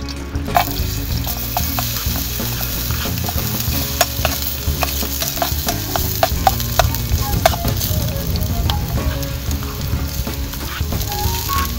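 Sardines with onion frying and sizzling, with a steady hiss and frequent sharp crackles and ticks of stirring.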